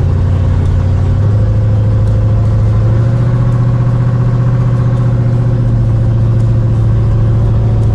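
1955 Chevy wagon's engine pulling hard at full throttle, a loud, deep, steady drone whose pitch shifts a few times in the first three seconds.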